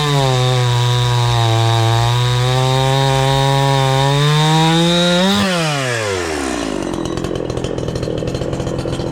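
Two-stroke chainsaw engine running under load through a cut. About five seconds in it revs up briefly as the load comes off, then it is shut off and its pitch falls steeply as it winds down, leaving a steady rough noise.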